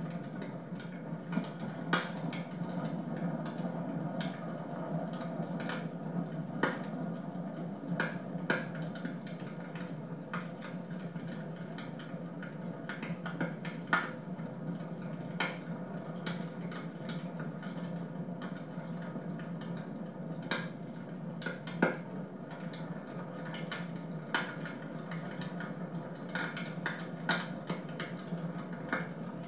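Wood fire crackling in a home fireplace: irregular sharp pops and snaps, a few louder than the rest, over a steady low hum.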